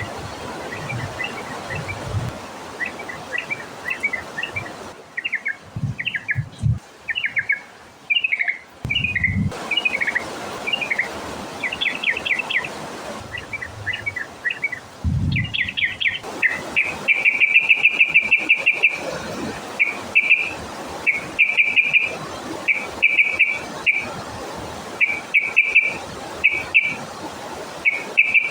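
Yellow-vented bulbul (trucukan) singing: quick chattering phrases at first, then from a little past halfway a long rapid trill of about two seconds followed by a string of shorter trills. A few low thumps sound in the first half.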